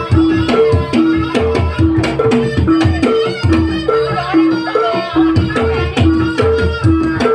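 Live Javanese traditional percussion music of the kind played for a trance dance. Drums and rattling percussion play over an even, repeating pattern of two alternating pitched notes.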